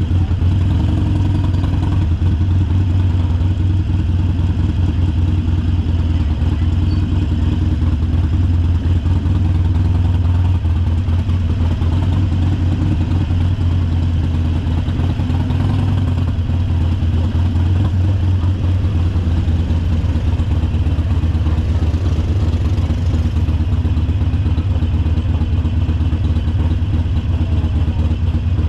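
Harley-Davidson Sportster Forty-Eight's 1200 cc V-twin engine running steadily with a deep low pulse, its pitch shifting a little about ten to twelve seconds in.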